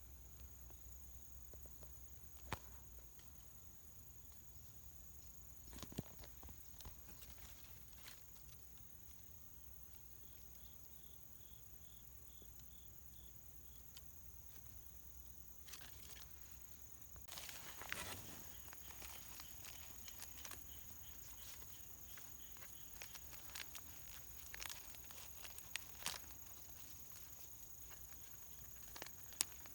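Quiet outdoor ambience: scattered faint rustles and clicks, busier about two-thirds of the way in, over a steady high-pitched hum, with a short run of quick high chirps near the middle.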